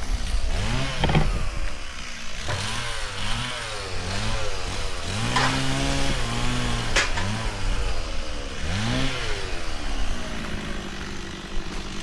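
A small engine revved up and down over and over, its pitch rising and falling about once a second, over a steady lower engine hum.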